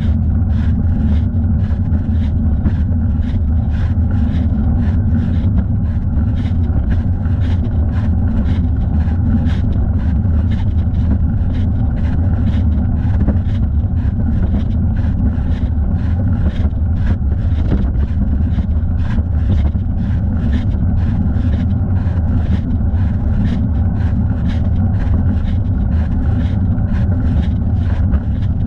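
Steady wind rumble on a thigh-mounted camera's microphone while riding a bicycle, with a faint regular ticking about twice a second.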